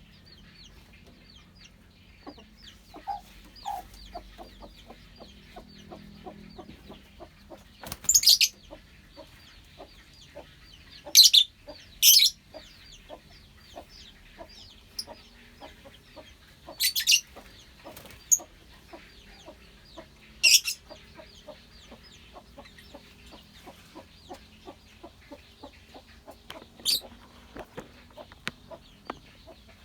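Colony of lovebirds chattering continuously, with about six loud, shrill, high-pitched screeches scattered through.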